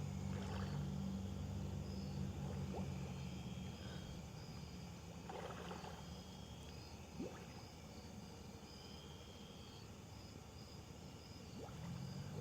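Low steady hum of a small motor that fades out about four seconds in and comes back near the end, with a couple of brief splashy rushes of water.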